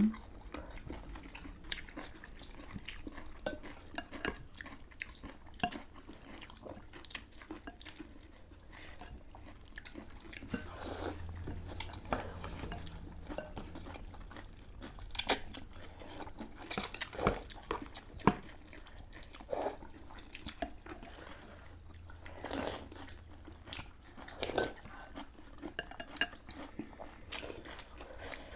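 People eating kaw naw noodle soup: chewing and biting with occasional crunches, and utensils clicking and clinking against bowls at irregular moments.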